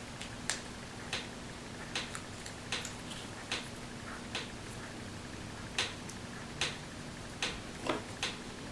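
A series of light, sharp clicks, roughly one a second but unevenly spaced, from hand work with paper and craft tools, over a faint steady hum.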